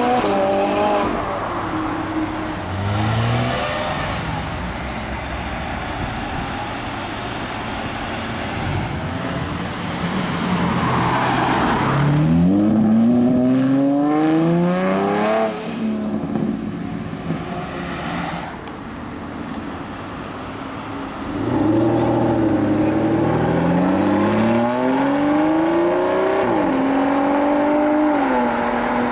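Cars, several of them supercars, driving off one after another, engines revving up in rising pitch as they accelerate, with gear changes dropping the pitch before it climbs again.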